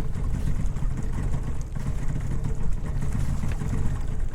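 Small boat's outboard engine idling: a steady low rumble with a faint steady hum above it.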